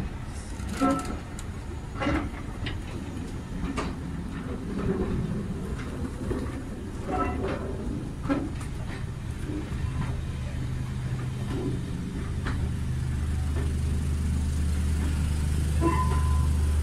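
Passenger coaches rolling slowly past, their wheels rumbling and knocking over the rail joints. From about ten seconds in, a steady low diesel engine hum builds and grows louder as the Class 33 diesel locomotive at the rear of the train draws near.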